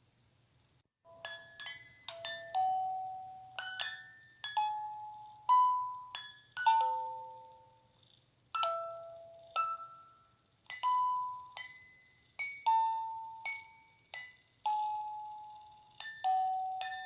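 A slow lullaby melody of single bell-like struck notes, each ringing out and fading before the next, starting about a second in after a moment of near silence.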